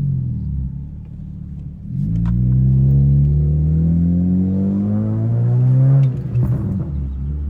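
2012 Honda Civic's 1.8-litre four-cylinder through an aftermarket exhaust, accelerating with a steadily rising note for about four seconds. The throttle then closes suddenly and the exhaust gives a few short crackling pops before settling to a lower, steady note.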